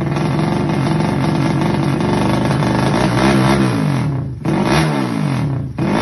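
Yamaha Jupiter motorcycle engine, bored up to 200cc, idling steadily and then blipped on the throttle a few times in the second half, each rev rising and dropping back to idle.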